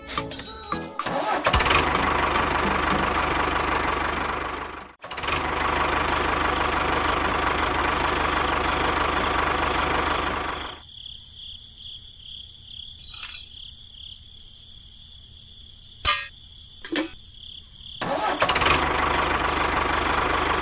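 A motor running steadily. It cuts out for a moment about five seconds in, drops to a quiet high whine with a few clicks from about eleven seconds, and runs loud again near the end.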